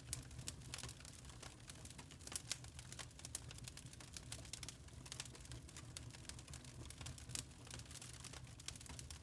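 Burning charcoal crackling: many small, irregular pops and snaps, with a steady low hum underneath.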